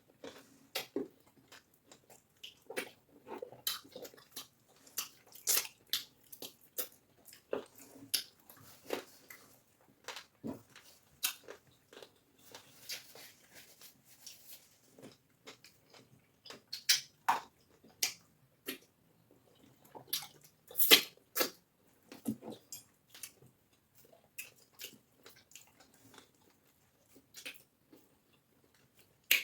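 Close-miked eating sounds from cassava fufu with egusi soup: irregular wet mouth smacks, chewing and squishes, loudest about two-thirds of the way through.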